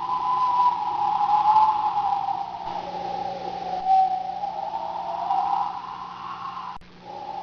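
Storm wind whistling: a single wavering tone that slowly rises and falls in pitch over a steady hiss, cutting out abruptly near the end.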